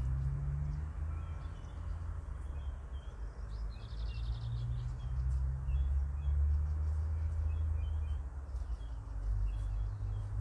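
Small birds chirping again and again, with a short rapid trill about four seconds in, over a steady low rumble.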